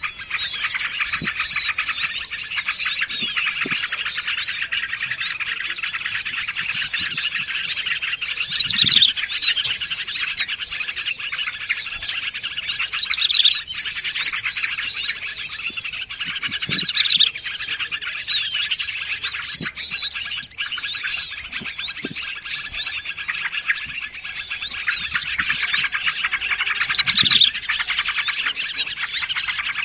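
Dense, busy chorus of small songbirds, many rapid chirps and trills overlapping without a break: a layered bird-lure (suara pikat) track of forest birds such as bulbuls and prinias.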